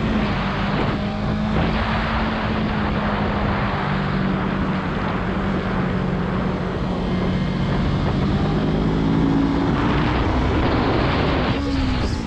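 Yamaha R3 sport bike's parallel-twin engine running at a fairly steady pitch, rising a little late on and dropping near the end, under a steady rushing noise.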